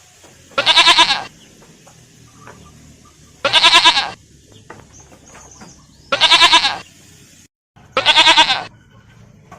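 Goat bleating four times, a few seconds apart. Each bleat is a wavering, quavering call under a second long.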